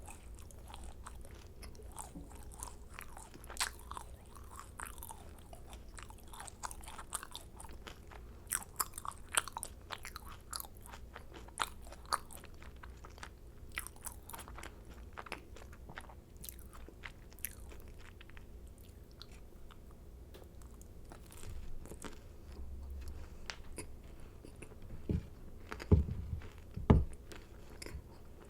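Macarons being bitten and chewed close to the microphone: crisp shells crunching, with many small clicks and crackles of chewing. The chewing quietens for a few seconds past the middle, and a few dull thumps near the end are the loudest sounds.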